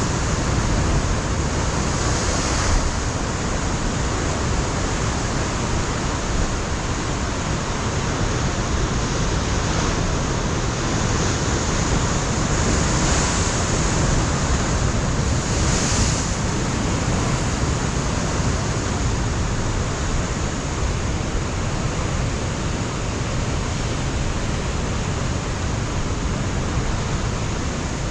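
Ocean surf breaking on a rocky coastline, a continuous rush of water with swells of spray noise now and then, and wind on the microphone.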